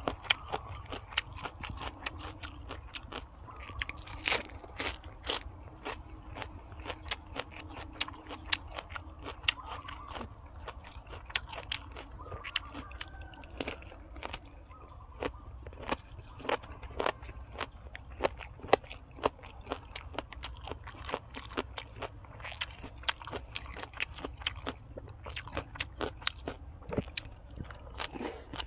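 A person chewing crisp food close to the microphone: a dense run of sharp crunches and mouth clicks, several a second, over a low steady hum.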